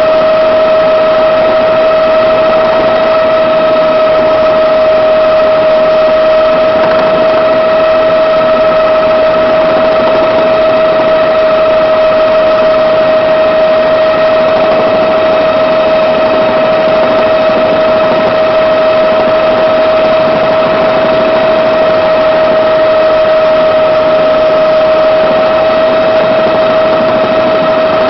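Helicopter in steady flight: constant engine and rotor noise with a strong steady whine running through it.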